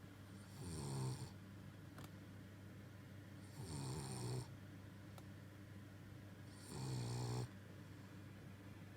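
American Bully dog snoring in his sleep: three snores about three seconds apart, each under a second long.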